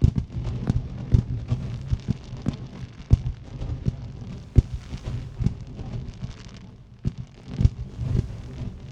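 Aerial firework shells bursting in quick, irregular succession, several bangs a second over a constant low rumble, with a brief lull about seven seconds in.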